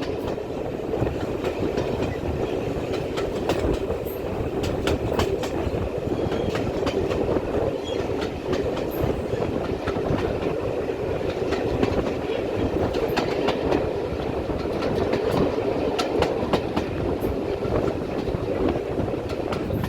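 Heritage railway train running along the line: a steady rumble of the carriages with the clickety-clack of wheels over the rail joints, and scattered sharp clicks throughout.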